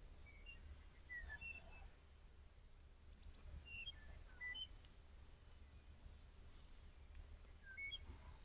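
Faint songbird singing: three short phrases of quick chirping notes, a few seconds apart, over a low steady rumble.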